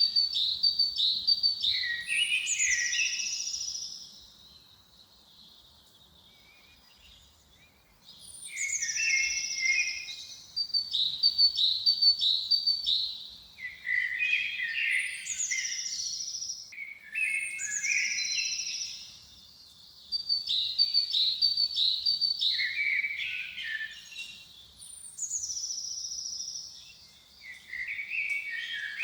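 A songbird singing the same short, high-pitched phrase over and over in a forest, each phrase a quick run of repeated notes ending in a downward flourish. There is a pause of a few seconds after the first phrase, then the phrases follow closely on one another.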